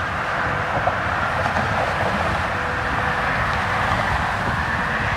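Steady rushing noise of wind and road while riding a bicycle, with a low rumble underneath and no break.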